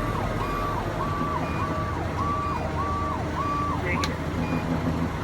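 Fire engine's electronic siren cycling quickly up and down, about one and a half cycles a second, over the truck's steady low engine rumble. The siren stops about four seconds in, with a sharp click.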